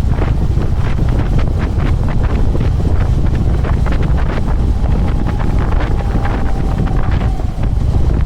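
Heavy wind buffeting on the camera's microphone over the low rumble of a Harley-Davidson Electra Glide's V-twin engine while riding.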